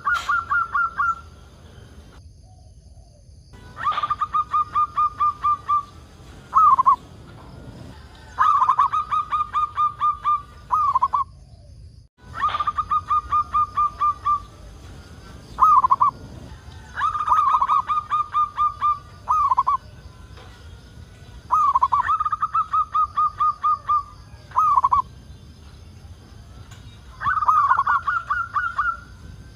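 Zebra dove (perkutut) singing its repeated cooing song, a lively 'gacor' bird: each phrase is a quick run of rattling notes followed a moment later by a single drawn-out closing coo. The phrase comes about every four to five seconds, six times in all.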